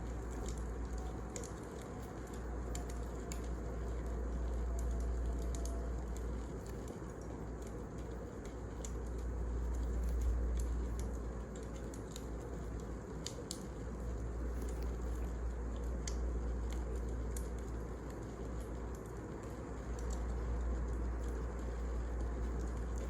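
Wood fire crackling: frequent small sharp pops and snaps over a steady low rumble.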